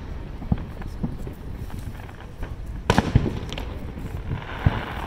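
Aerial fireworks shells bursting in a run of booms, with the loudest cluster about three seconds in, then a crackling hiss near the end as glittering stars burn out.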